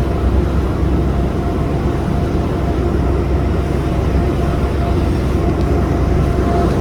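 A boat's engine running steadily: a low, even drone with a faint steady hum on top.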